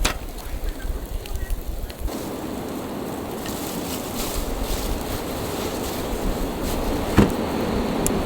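Wind buffeting the microphone in gusts, then, about two seconds in, a steady even rush of blizzard wind, with a single sharp knock near the end.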